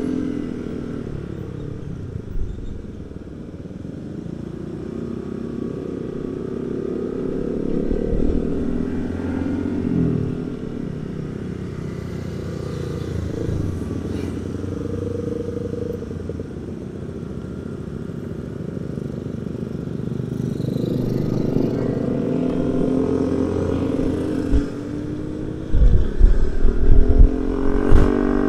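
Honda ADV 160 scooter's single-cylinder engine and the group's other motorcycles running at low road speed, their pitch rising and falling with the throttle. Several loud low thumps hit the microphone near the end.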